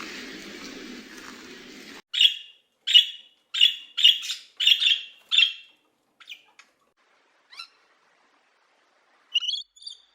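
A bird calling: a run of about seven short, sharp chirps in quick succession, then a few fainter calls and a final pair of chirps near the end. A noisy background runs for the first two seconds and cuts off suddenly before the calls begin.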